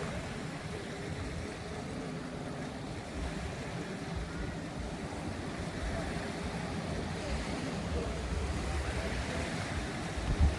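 Waves washing onto the beach in a steady rush, with a low engine rumble of traffic or boats underneath. A single short low thump near the end.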